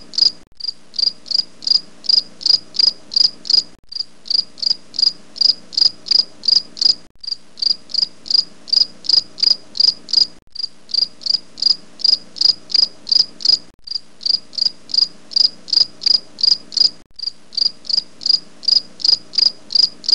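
Cricket chirping loudly and steadily, about three high chirps a second, breaking off briefly every three seconds or so.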